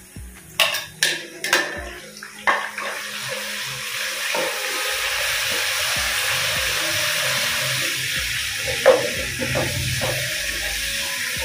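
Ginger-garlic paste going into hot ghee and fried onions in a wok: a few sharp taps of a wooden spoon against the plate and pan, then a steady sizzle as the paste fries while being stirred, with a couple more spoon knocks near the end.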